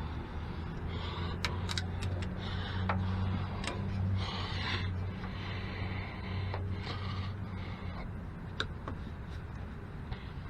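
Hand-work noises of parts being fitted: irregular rubbing and scraping with a few sharp clicks, over a steady low hum.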